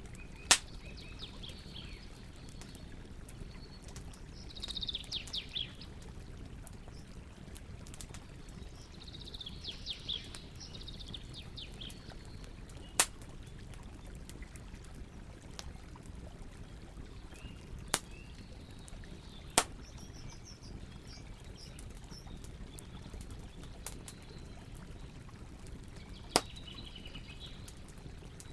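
Wood campfire crackling, with about five sharp pops spread out, over the steady rush of a river; birds chirp in short bursts now and then.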